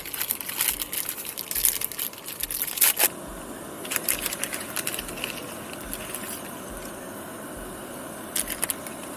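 Irregular crackling and crinkling handling noise, in clusters during the first three seconds, again around the fourth to fifth second and briefly near the end, over a steady background hiss.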